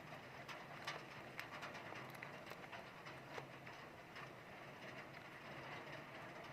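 Heavy rain falling steadily, with scattered sharp taps of drops striking close by.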